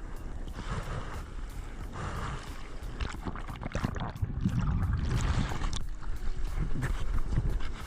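Sea water splashing and sloshing around an action camera in the surf, with wind buffeting the microphone; the low rumble of the water grows louder about halfway through.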